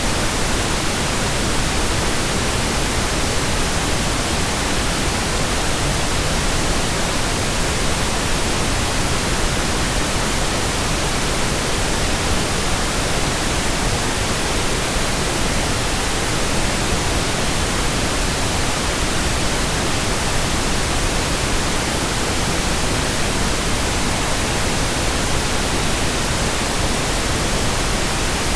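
Steady white noise: an even, unchanging hiss spread across all pitches, played as a sleep sound for babies.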